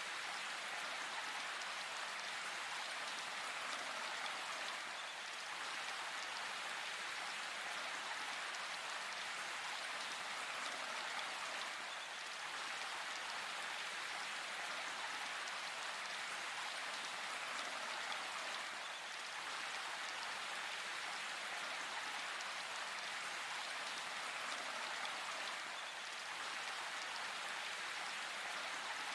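Steady rain falling in a forest, an even hiss of many drops on leaves and ground with no change in strength.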